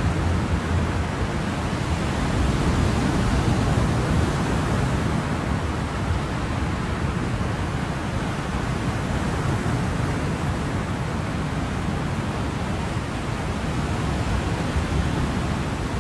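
Ocean surf: a steady wash of waves with only gentle swells in level.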